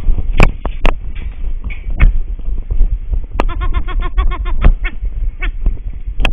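Boer goat bleating once about halfway through, a quavering call that breaks into rapid pulses, among sharp knocks and clatter.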